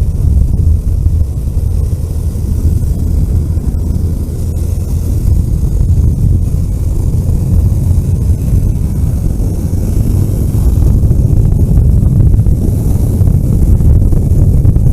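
Car driving along a road: a steady, loud low rumble of engine and tyres, with wind noise rising and the overall level growing somewhat louder about ten seconds in.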